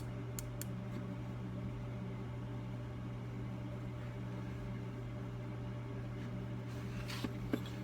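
Steady low mechanical hum of a running motor or fan. A few faint light clicks sound about half a second in and again near the end.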